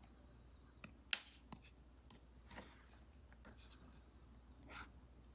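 Apple Pencil Pro tip tapping and stroking on an iPad screen fitted with a paper-like film: a few light taps, the sharpest about a second in, and short scratchy strokes.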